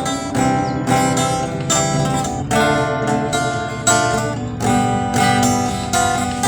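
Acoustic guitar strummed in a steady rhythm, about two strokes a second, ringing out full chords.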